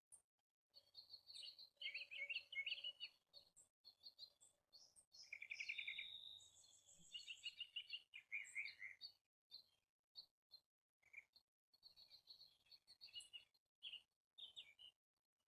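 Songbirds singing: rapid trilled phrases and chirps, the fullest songs in the first half, then shorter scattered calls.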